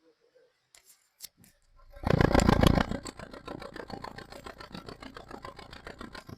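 A few light clicks, then a car engine starts about two seconds in, loudest for the first second, and settles into an uneven pulsing idle. This is a misfire from two cylinders not firing, put down to a failed ignition coil.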